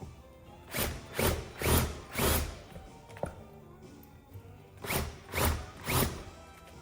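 Seven short noisy bursts from a shop tool, four in quick succession and then three more a couple of seconds later, over background music.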